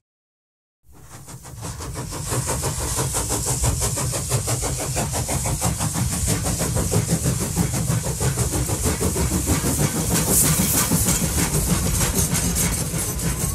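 A train running, a rapid, even rhythm of beats over a steady hiss, fading in after about a second of silence.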